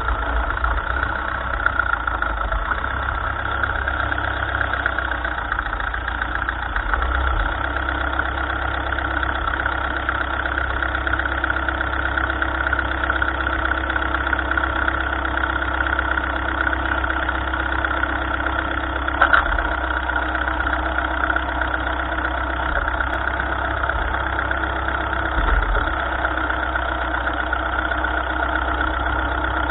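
1955 Ferguson tractor's engine running steadily, with one brief sharp knock or clank about two-thirds of the way through.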